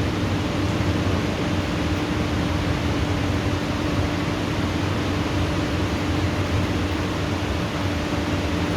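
Steady rain from a thunderstorm, an even hiss, with a steady low hum underneath.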